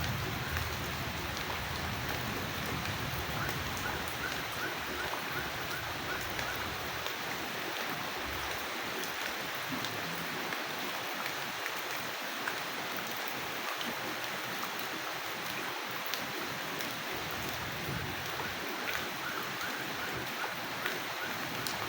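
Steady rain falling, an even hiss of drops. A low rumble dies away over the first several seconds.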